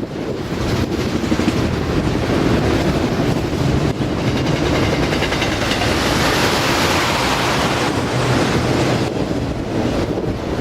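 Autorack freight cars rolling past on the rails, a steady rushing rumble of wheels on track that brightens in the middle, with wind buffeting the microphone.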